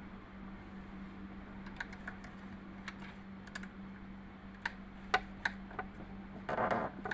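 Scattered light clicks and taps of small metal parts as the shuttle hook of a Janome 393 sewing machine is worked by hand during hook-timing adjustment, with a short scraping rustle near the end. A steady low hum runs underneath.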